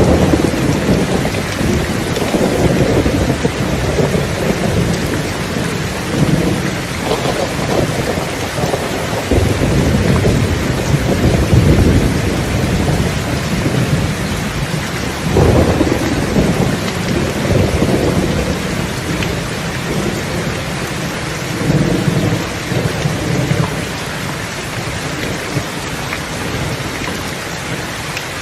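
Steady heavy rain hissing, with low rolls of thunder swelling and fading several times.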